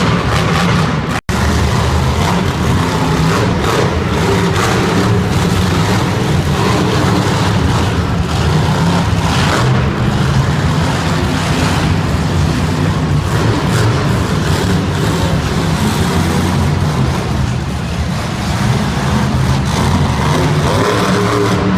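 Monster truck engines running loud and steady, echoing in an indoor arena. The sound cuts out for a split second about a second in.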